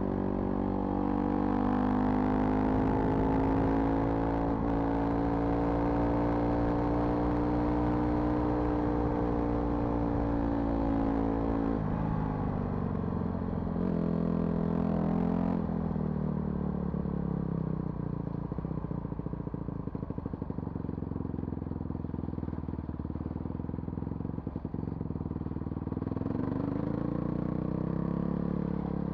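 A vehicle engine running while driving, its pitch steady for a while, then dropping about twelve seconds in and changing again near sixteen seconds, with scattered light knocks from the rough road.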